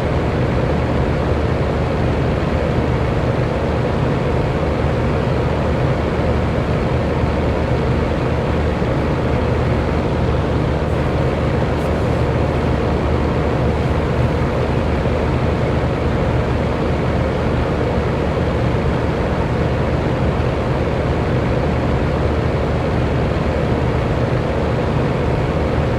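Electric fan running steadily: a constant whooshing rush of air with a low motor hum.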